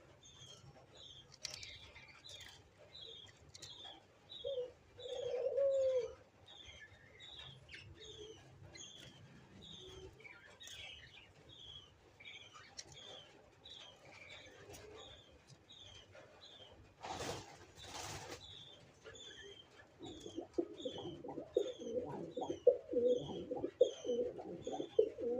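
Spotted doves calling: a short low coo about five seconds in and a denser run of low cooing calls over the last five seconds, over a steady series of high chirps about twice a second. Two brief rustles come a little after the middle.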